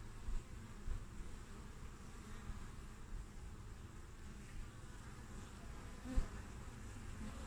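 Western honeybees (Apis mellifera) buzzing at a hive entrance, a steady hum of many bees flying in and out. A brief low thump sounds about six seconds in.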